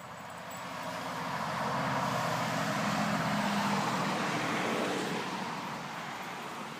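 A road vehicle passing by: its noise swells over about three seconds, peaks in the middle and fades away.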